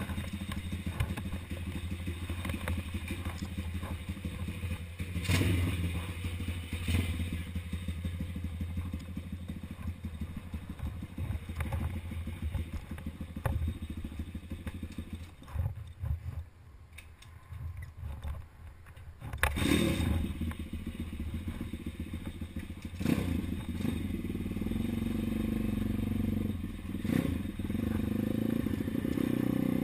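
Engine of a 140cc big-wheel dirt bike running, with occasional knocks and clatter. Past the middle it drops quieter for a few seconds, then comes back louder and revs up in surges near the end.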